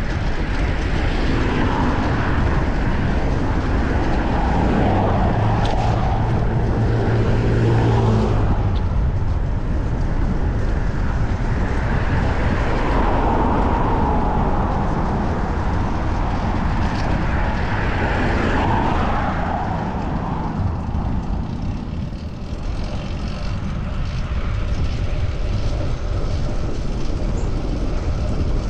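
Steady wind and road noise on a microphone riding along on a bicycle through city traffic, with a motor vehicle's engine hum standing out from about three to eight seconds in.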